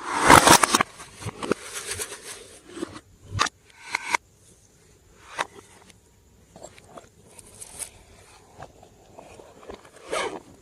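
Hands squishing and kneading glossy slime, giving sticky crackling and clicking pops. The loudest, densest crackle comes in the first second, followed by scattered single clicks and softer squelching.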